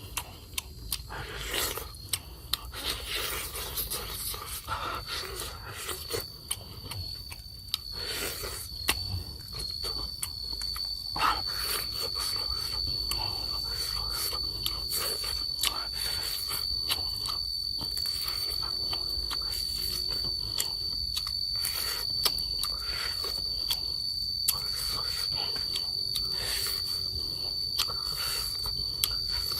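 Scattered crunches, clicks and scrapes over a steady high-pitched whine.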